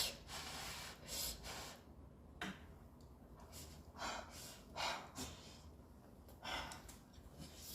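A person eating a mouthful of rice with gochujang-marinated dried yellow croaker: faint chewing and breathing sounds close to the microphone, a short soft rush about once a second.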